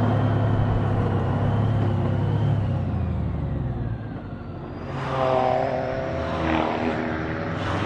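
Honda Gold Wing's flat-six engine running on the move under wind rush. The engine note eases off about halfway, then rises again in a couple of surges from about five seconds in as the bike picks up.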